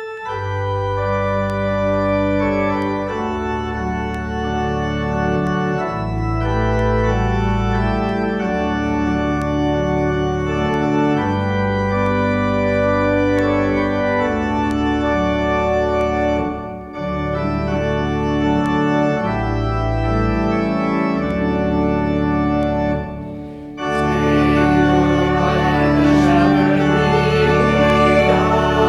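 Organ music: sustained chords over deep bass notes that change every second or two, with two brief breaks. About 24 seconds in it grows fuller and brighter.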